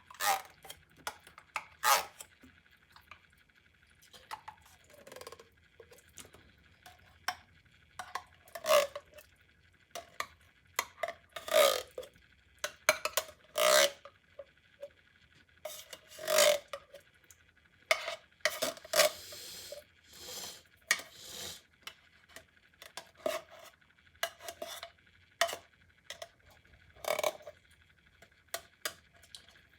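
A small spoon scraping and clinking against a tin can, scooping out canned spaghetti and meatballs, in irregular strokes with short pauses between.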